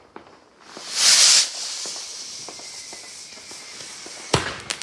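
Fireworks: a loud hiss about a second in that trails off over the next few seconds, then a sharp bang near the end with a few quick cracks, as another hiss starts.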